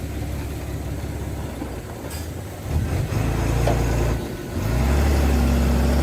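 Heavy diesel engine of earthmoving equipment running. It swells louder under load twice, about three seconds in and again from about four and a half seconds.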